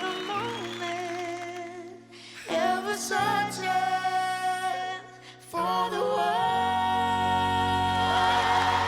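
Sung ballad with backing music, the voices holding long notes over sustained chords, with two short drops in level about two and five seconds in.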